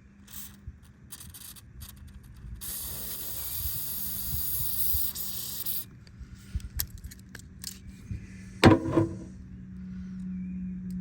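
WD-40 aerosol sprayed into the blade opening of an out-the-front knife: a few short hissing bursts, then one steady spray lasting about three seconds, then more short bursts. A brief, loud knock comes near the end.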